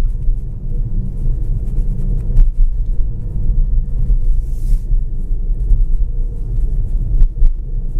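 Low, steady road rumble inside the cabin of a Tesla Model S, its snow tyres running over a snow- and slush-covered road. A few sharp knocks come through, and there is a brief hiss about four and a half seconds in.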